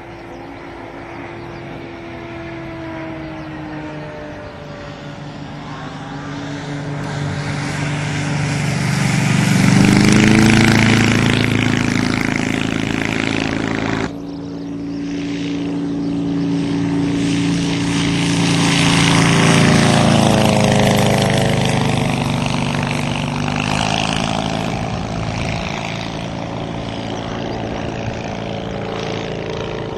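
Propeller airplane passing by, its engine note swelling to a peak about ten seconds in and shifting in pitch as it passes. The sound cuts off abruptly about fourteen seconds in, and a second pass swells and fades again.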